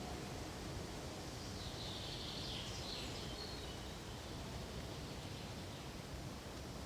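Steady rustle of wind through pine needles, with one bird call from about one and a half to three and a half seconds in.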